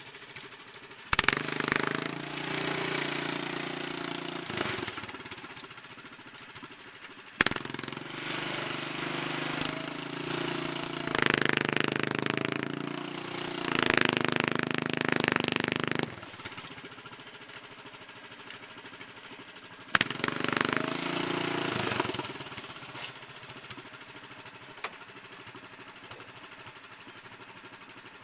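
Predator mini truck's small engine revving hard in three long bursts while straining to pull, dropping back to a lower steady run between them. A sharp clunk comes at the start of each burst.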